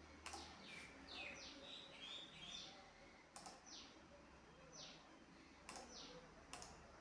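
Faint bird chirps: short calls falling in pitch, repeated about once a second, with a brief warbling run about two seconds in. A few soft clicks sound between them.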